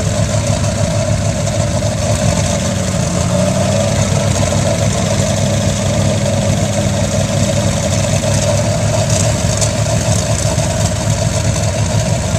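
Buick straight-eight engine in a land-speed streamliner running at a steady idle.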